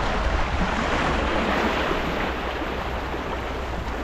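Water rushing along a sailing boat's hull as it sails, a steady hiss, with wind noise on the microphone underneath.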